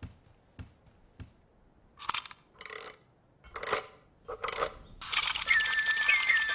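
Clockwork mechanism of a toy mechanical bird being wound: a few faint clicks, then three short metallic ratcheting bursts. About five seconds in, the mechanical bird's tinkling tune starts, stepping down in pitch with little upward flicks.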